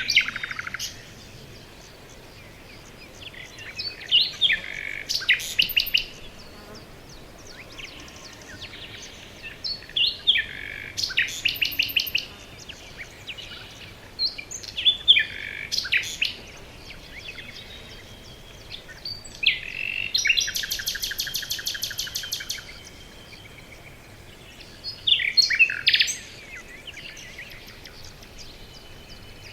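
Songbirds singing in a forest: short whistled and chirping phrases come every five seconds or so. About twenty seconds in, one phrase is a two-second trill of rapid, evenly spaced notes. A faint steady hiss fills the gaps between phrases.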